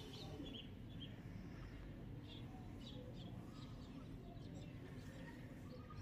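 Faint, scattered short high chirps of small birds over a low steady background rumble.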